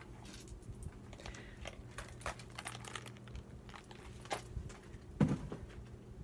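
Paper and craft materials being handled on a table: irregular light clicks, taps and rustles, with one louder thump about five seconds in.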